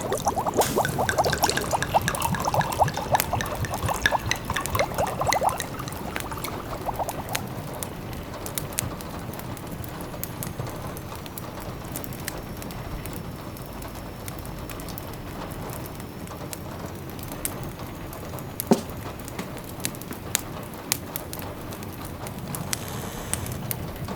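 Ambient sound effects. For about the first seven seconds liquid gurgles in quick repeated bubbles, like a pot simmering. Then a steady soft patter of rain carries on, dotted with the small crackles and pops of a wood fire, one sharper pop about nineteen seconds in.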